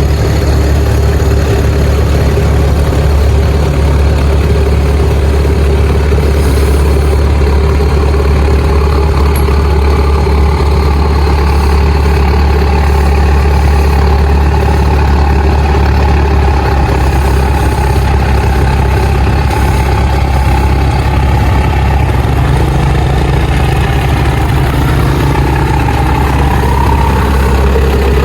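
Rice harvester's diesel engine running loud and steady at high throttle, its pitch rising slightly near the end.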